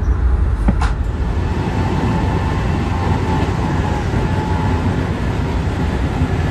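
Steady low rumble and rail noise of a Budd-built former Metroliner cab car rolling at speed, loud in the end vestibule by the door. One sharp click comes just under a second in.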